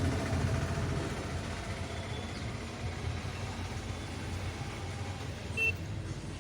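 Steady low background rumble like distant road traffic, with one short click about five and a half seconds in.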